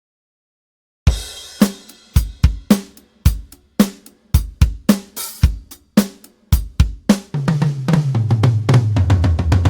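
Toontrack EZdrummer 3 sampled acoustic drum kit playing a groove of kick, snare, hi-hat and cymbal, starting about a second in. Near the end comes a fast fill of low drum hits that steps down in pitch.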